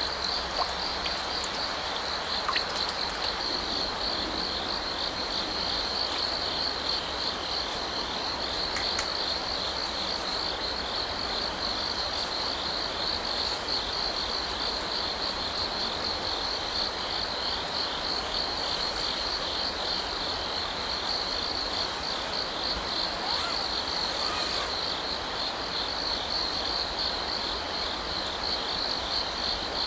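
Grass insects, crickets, chirping in a steady, fast-pulsing chorus over the constant rush of a running stream.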